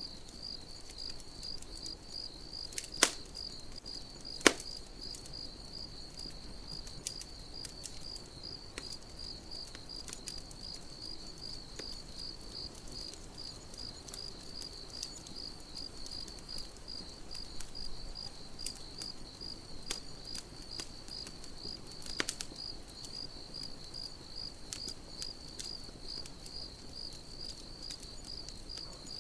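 Crickets chirping steadily in an even pulsing rhythm over a campfire crackling, with two sharp pops a few seconds in and another later, plus faint ticks.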